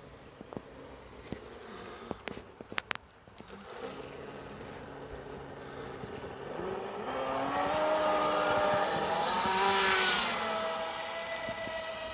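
Model motor yacht's motor running: a few clicks at first, then a steady drone from about four seconds in that rises in pitch and loudness as the motor is throttled up, peaks around ten seconds, and eases back to a steady higher tone.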